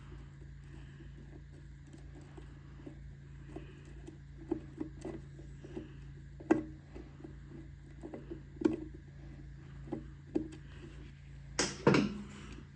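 Small metal clicks and taps of a screwdriver and loose screws and parts being handled while the carburetor is unscrewed from a small mower engine's gas tank, a few sharper clinks scattered through and a louder clatter near the end, over a low steady hum.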